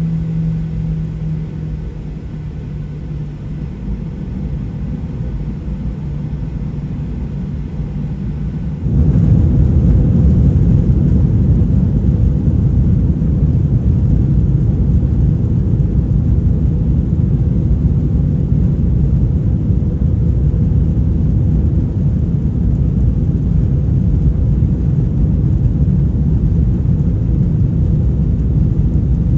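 Steady low rumble inside a Boeing 737-800 cabin, which jumps abruptly to a louder, fuller rumble about nine seconds in and then holds steady.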